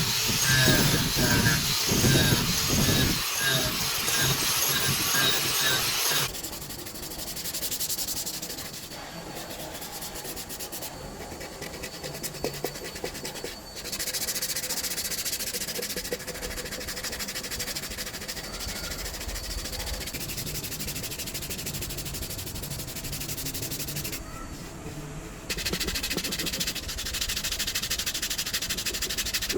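Wood being sanded or rubbed by hand, in several separate stretches. The first six seconds are louder and harsher; after that the rubbing runs quieter, broken by short gaps.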